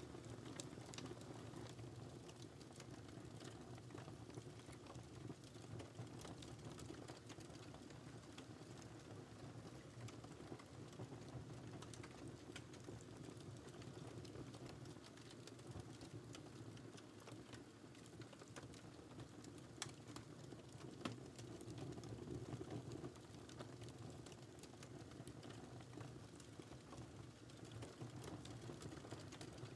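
Wood fire crackling: a soft, steady low rumble of flames with scattered sharp pops and snaps, one louder pop about two-thirds of the way through.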